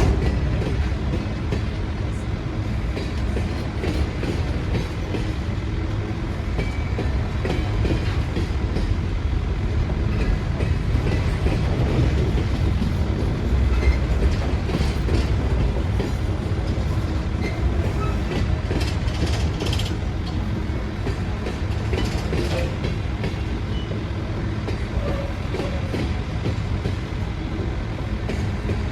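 Train running by: a steady low rumble with scattered clicks throughout.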